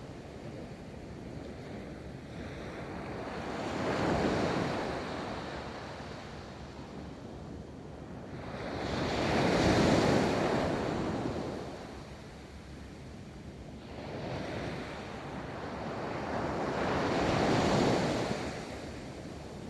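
Ocean waves rolling onto a beach: the surf swells and falls back in slow surges, cresting about four, ten and eighteen seconds in, with the wash of the sea between.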